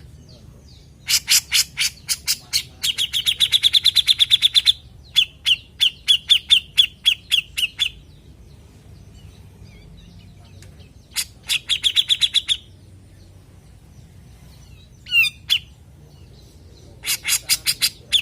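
Grey-cheeked bulbul (cucak jenggot) calling in several bursts of fast, evenly repeated harsh notes, each burst lasting one to four seconds, with pauses between. A brief gliding note comes about two-thirds of the way through.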